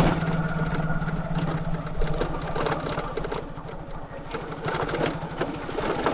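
Motorcycle engine running steadily at low revs, its rapid firing pulses holding an even pitch.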